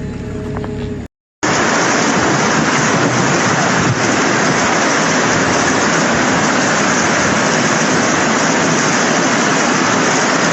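Heavy rain pouring down, a loud, steady, even hiss that starts abruptly about a second and a half in, after a brief silence. Before the cut, the tail of background music plays.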